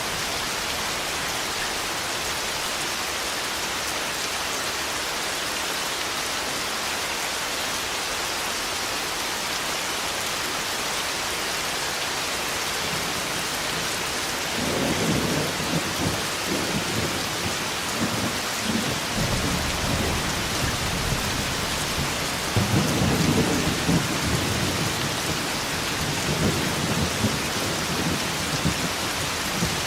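Heavy rain falling steadily, with rolling thunder rumbling in about halfway through and a stronger roll a few seconds later.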